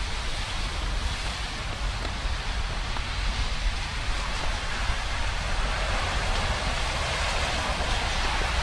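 Steady rain falling, an even hiss, with a low rumble beneath it.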